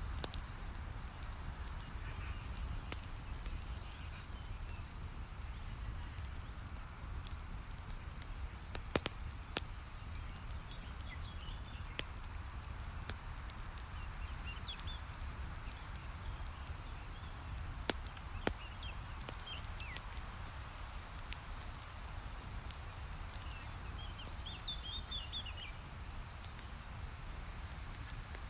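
Campfire burning with soft crackling and occasional sharp pops over a steady low rumble, with faint bird chirps now and then.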